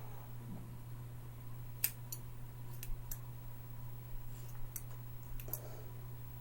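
Scissors snipping through hair in a home haircut: a series of about eight short, sharp snips at an uneven pace, starting about two seconds in, over a steady low hum.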